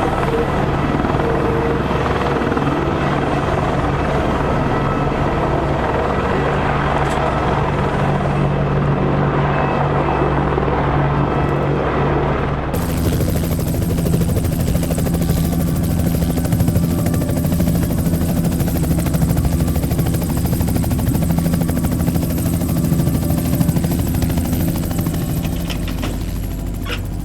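AH-64 Apache helicopter running, with a steady drone from its rotors and turbines. The sound changes abruptly about 13 seconds in and then carries on as a similar steady helicopter drone.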